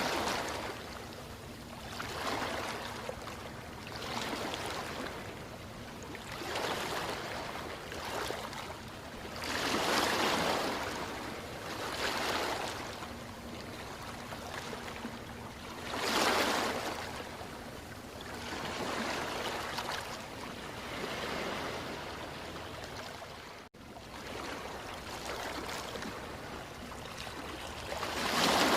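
Ocean surf: waves washing in and draining back, swelling and fading every couple of seconds, with bigger breakers about a third of the way in, a little past halfway and near the end. The sound cuts out for an instant about 24 seconds in.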